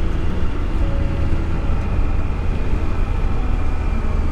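Motorcycle riding at speed downhill: a steady low rush of wind over the microphone, with faint steady engine tones beneath it from a quiet, non-loud exhaust.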